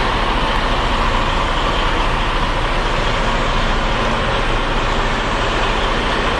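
Semi-truck running, a steady loud rumble with noise across the range and no sudden events.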